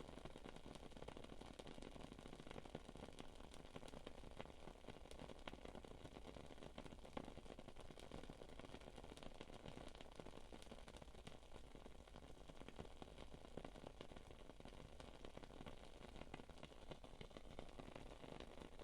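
Faint crackling of a wood-wick candle: small, irregular pops and ticks over a low steady hiss.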